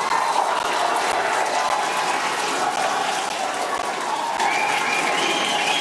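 A crowd applauding and cheering in a steady roar of claps, with a few whoops rising out of it near the end, reacting to the Starship Super Heavy booster's splashdown.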